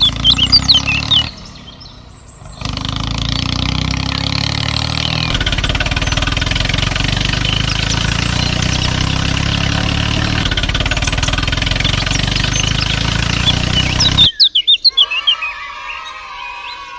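A motor running steadily with a low hum and hiss, starting about two and a half seconds in and cutting off suddenly near the end, with birds chirping.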